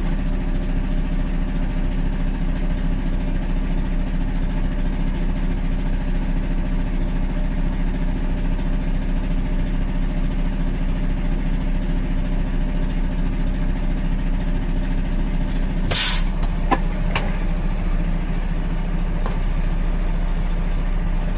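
Heavy truck's diesel engine idling steadily. About sixteen seconds in there is a short, loud hiss, followed by a few clicks.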